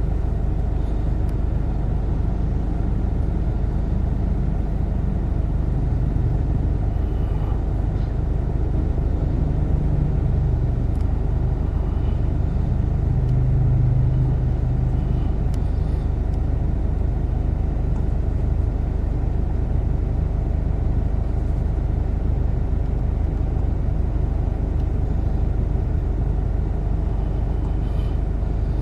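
A motor vehicle's engine running steadily with a low rumble, swelling slightly about halfway through.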